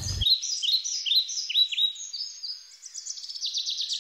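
Songbird singing: a series of quick down-slurred chirps, about four a second, then a rapid high trill from a little before three seconds in.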